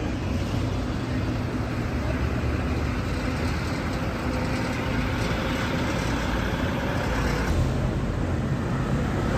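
Steady city road traffic: engines of passing cars and buses running, with a faint engine tone that drifts slightly lower over a few seconds before the noise shifts about three quarters of the way through.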